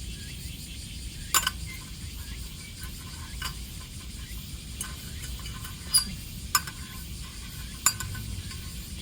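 Metal cooking utensils clinking against cookware, about five sharp ringing clinks spread unevenly over a steady low background.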